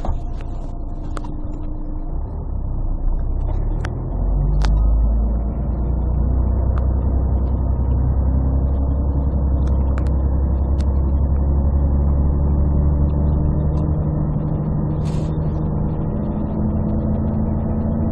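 Inside a Scania CN113CLL city bus: its Scania DSC 11 six-cylinder diesel runs low at first, then about four seconds in the drone swells as the bus pulls away and keeps pulling steadily through its Voith automatic gearbox. The sound is muffled and bass-heavy from a partly covered phone microphone. A few sharp knocks and rattles come through as well.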